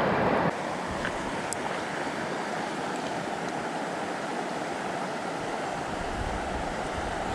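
Creek water rushing steadily over a riffle, an even hiss of flowing water.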